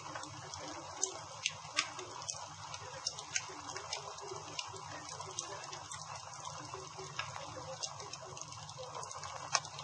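Campfire burning: a steady hiss with irregular sharp crackles and pops, a few louder pops about a second in and again near the end.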